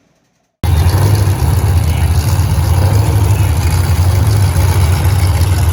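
Race car engines running: a loud, steady low rumble that cuts in abruptly under a second in, after a brief silence.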